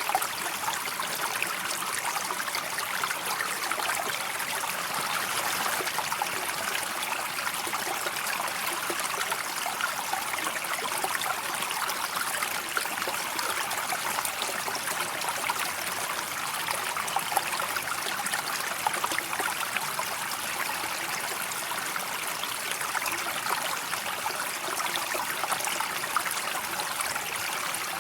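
River water flowing steadily, an even, unbroken wash of water sound with fine trickling detail.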